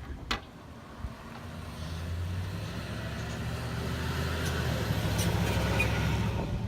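A motor vehicle running, its low engine and road noise growing steadily louder, with a sharp click about a third of a second in.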